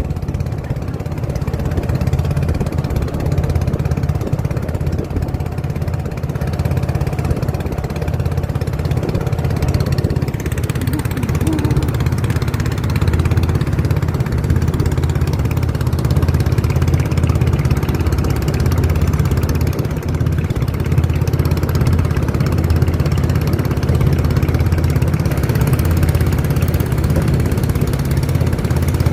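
A motorboat's engine running steadily with a deep, even hum.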